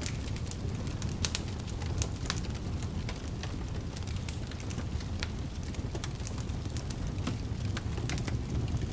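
Fireplace fire crackling: frequent, irregular sharp pops and snaps over a steady low rumble of flames.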